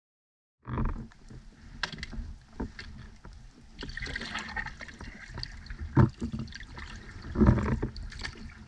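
Kayak paddles dipping and splashing in the water at an irregular pace, starting abruptly just under a second in, with the loudest strokes in the middle and near the end.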